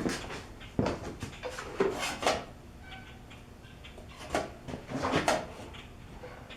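Hand work on the diesel engine's top end, bolts and parts being handled and set in place: a series of short knocks and clicks, several in the first couple of seconds and a few more about two-thirds of the way through.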